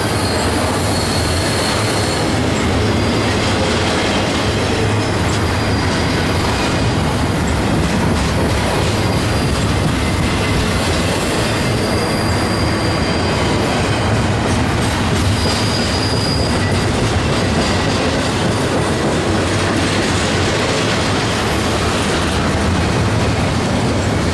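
Freight train cars rolling steadily past, the steel wheels running on the rails with a clickety-clack over the joints. A few brief, high-pitched wheel squeals come through, about a second in and again around the middle.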